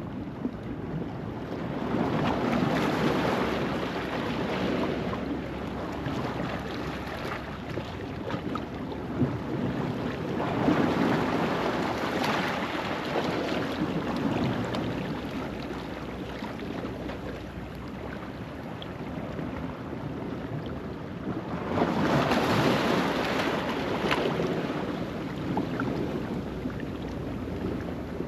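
Ocean waves washing over a rocky shoreline at low tide, surging three times and easing back between, with wind buffeting the microphone.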